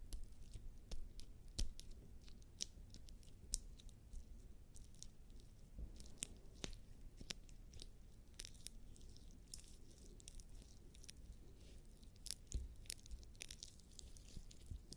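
Fingers rubbing and squeezing bare skin slick with lubricating jelly close to the microphone, making soft irregular sticky clicks and squelches several times a second.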